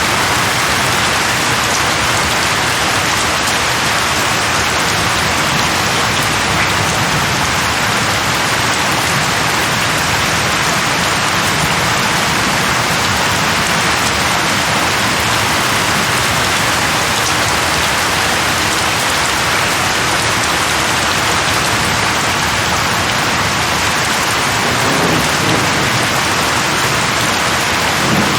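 Steady rain falling on tree leaves, an even hiss with no letup.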